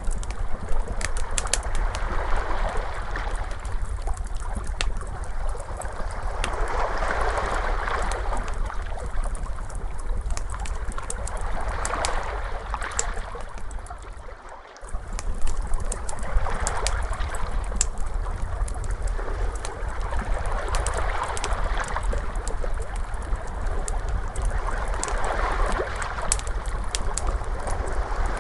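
Ocean waves washing in, swelling and ebbing every few seconds, mixed with the sharp snapping crackle of a fire. The sound dips briefly about halfway through.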